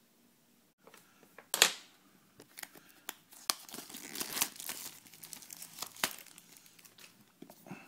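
Phone packaging being torn open and crinkled by hand. A sharp rip comes about a second and a half in, followed by a long run of crinkling and small clicks.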